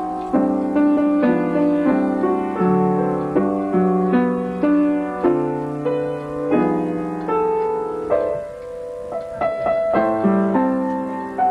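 Piano being played at a slow, gentle pace, chords with a melody on top struck about once or twice a second. The playing softens briefly about two thirds of the way through, then picks up with higher notes.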